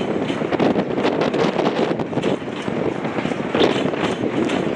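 A train passing close by: a steady noise with a dense run of rapid clicks and clatter from wheels on the rails.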